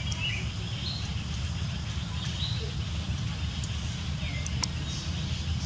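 Short, high bird chirps every second or so over a steady low rumble, with one sharp click a little past the middle.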